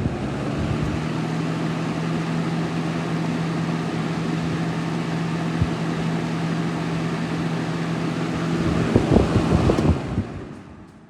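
Lasko 3723 box fan running on high, its once-seized motor freshly cleaned and oiled: a steady rush of air over a low motor hum. Near the end come a few knocks, then the sound fades away as the fan winds down.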